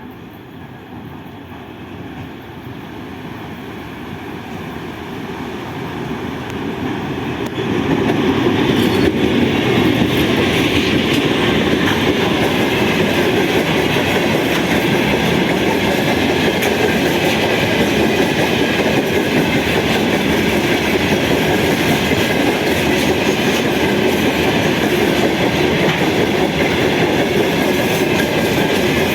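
A train approaching and growing louder, then passing close by with a sudden jump in loudness about eight seconds in; its cars then roll past steadily with wheels clacking over the rail joints.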